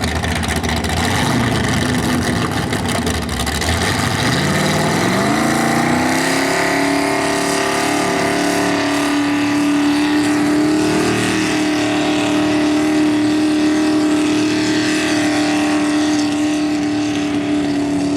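Mini rod pulling tractor's V8 engine: after about four seconds it revs sharply up to high RPM and holds there, running hard under load through the pull.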